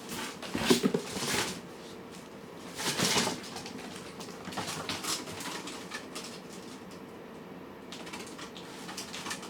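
Cats and kittens eating: irregular crunching and clattering sounds, loudest about a second in and again around three seconds.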